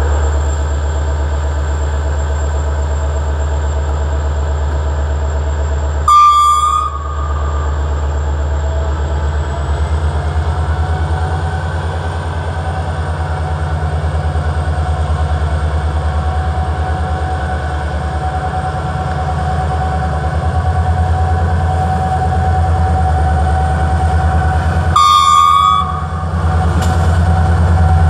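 A train horn sounds two short blasts, about nineteen seconds apart, over the steady low rumble of a railway engine running.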